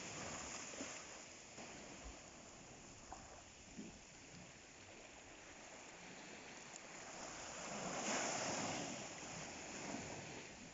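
Sea waves washing onto the shore, with a wave rushing in and breaking about eight seconds in, louder than the rest.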